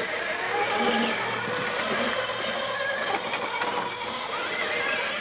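Small electric RC rock crawler's motor and gears whining as it crawls over rock, the pitch shifting as the throttle changes, over a steady hiss.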